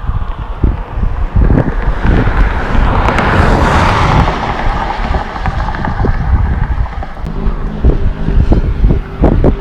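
Wind buffeting the microphone in uneven gusts, with a broad rushing sound that swells up and fades away over the middle few seconds.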